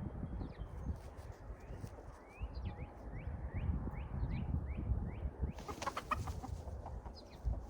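Chickens calling: a run of short rising calls, about two to three a second, then a louder squawk about six seconds in, over a low rumble.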